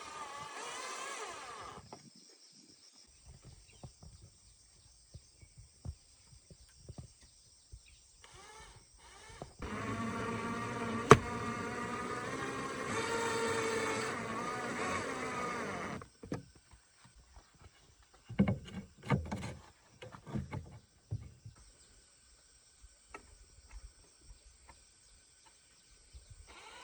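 A small motor runs for about six seconds, with one sharp click partway through, followed by a few short knocks.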